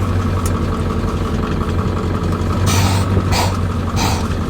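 Ford 7.3 Powerstroke V8 turbo-diesel running steadily at idle, exhausting through a downpipe only, with no exhaust fitted behind it. Three short hisses come over it near the end.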